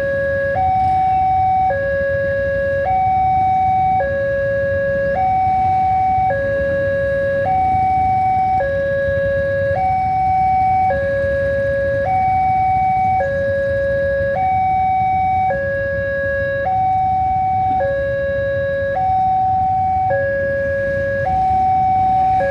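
Electronic warning alarm of a railway level crossing sounding: a two-tone signal switching evenly between a higher and a lower tone, each held about a second, over a steady low rumble. It is the signal that a train is approaching and the crossing is closed.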